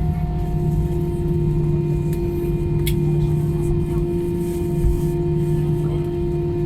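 Airplane engines running with a steady, droning hum of several level tones, joined by a couple of short sharp clicks about two and three seconds in.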